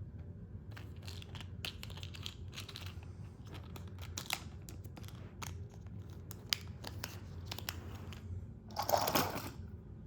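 Crinkling and rustling of packaging being handled, with many small crackles and a louder rustle about nine seconds in.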